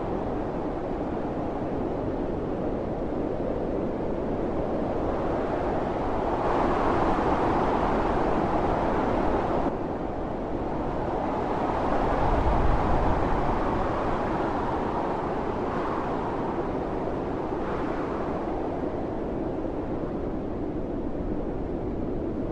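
Howling blizzard wind blowing in gusts: a steady rushing that swells louder about a third of the way in and again just past halfway.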